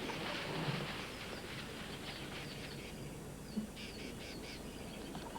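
Dry rustling of acacia branches and seed pods as an elephant shakes the tree, easing off after about two seconds, with short, high bird chirps over it.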